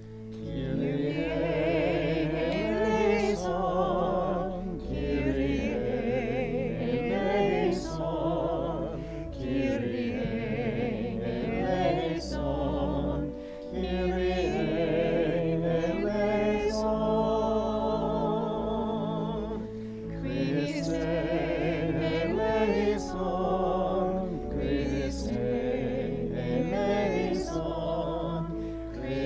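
Church music: singing with vibrato over sustained keyboard chords, in phrases with short breaths between them.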